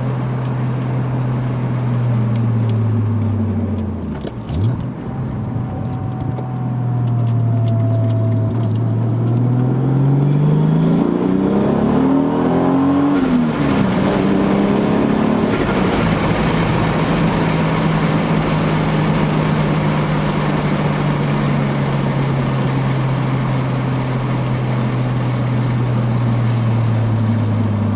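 Toyota Supra Mk3's 7M-GTE 3.0-litre turbocharged inline-six, through an HKS Silent Hi-Power catback exhaust, driving. The engine note drops around four seconds in, climbs steadily under acceleration from about eight seconds, falls sharply at about thirteen seconds as with a gear change, then holds steady cruising revs.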